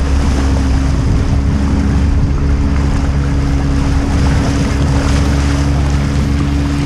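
Wind buffeting the microphone and water rushing along the hull of a small sailboat under way, over a steady motor hum that holds one pitch and changes near the end.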